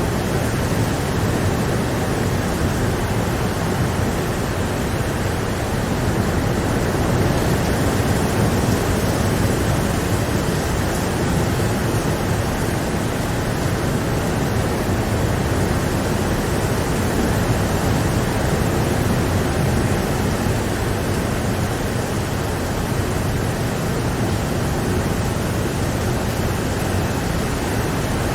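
Steady rain, a dense even hiss that holds without letting up.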